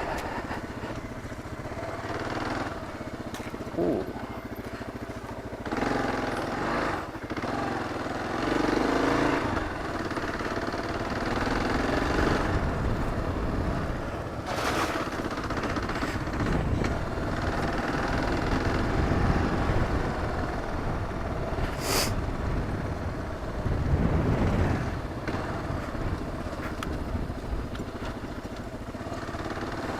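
Kawasaki KLR 650's single-cylinder four-stroke engine running as the bike is ridden steadily along a rough dirt trail, rising and falling with the throttle. Two sharp knocks stand out over the engine, about midway and about two-thirds of the way through.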